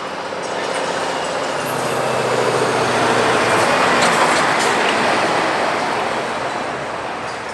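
Heavy vehicle driving past, its engine and rolling noise swelling to a peak about four seconds in and then fading.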